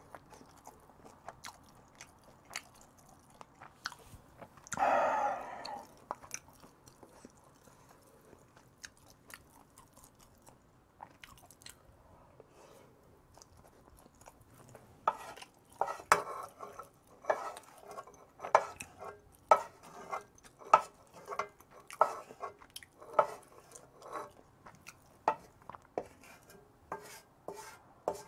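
A person chewing food close to the microphone, with wet mouth clicks. About five seconds in there is one short, louder sound, and from about halfway through the chewing settles into a steady, even rhythm.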